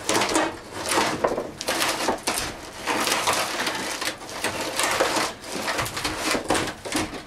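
Brittle demolition debris being broken apart and pulled out by hand, in repeated crunching, crackling bursts about once or twice a second.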